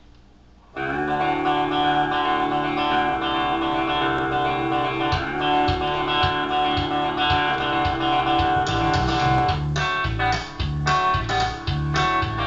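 Guitar-led country band playing an instrumental song intro, starting suddenly about a second in, with drum hits growing busier over the last few seconds.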